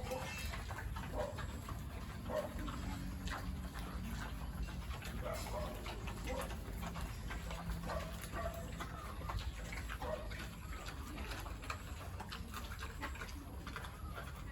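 Farm animals giving short calls every second or two, over a steady low rumble.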